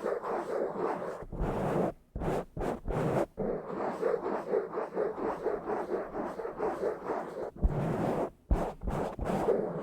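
Rough, fast scratching and rubbing on a bare microphone, with a few low thumps and brief pauses about two seconds in, about three seconds in, and near the end.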